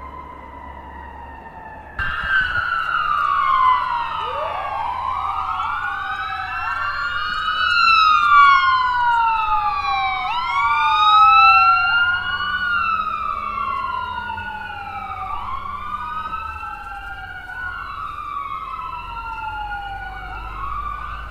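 Several emergency-vehicle sirens wailing together, out of step, each rising quickly and falling slowly. They start abruptly about two seconds in, after a fainter held tone.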